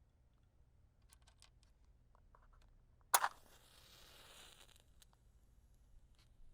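A wooden match struck on the box about three seconds in, flaring with a hiss for about a second and a half. Before the strike come a few light clicks from handling the matches and box.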